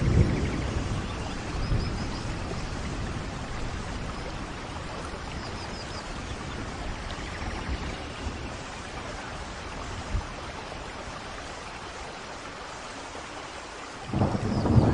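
Steady rainforest rain falling, with a low rumble of thunder at the start and a louder one rolling in near the end. Faint high chirps come twice near the middle.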